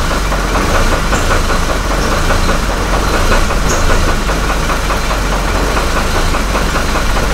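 Hummer H3 engine idling very rough at about 500 RPM, shaking and close to stalling, with a knock from the engine that is less loud at this low RPM. The knock is what the owner takes for a possible rod bearing problem, and he likens the rough, unsteady running to a fuel supply problem.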